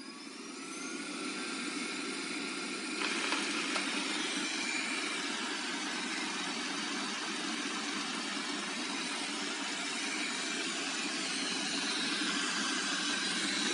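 Xiaomi Mi Robot Vacuum's suction fan spinning up with a rising whine, then running steadily with a broad whirring hum that grows a little louder about three seconds in.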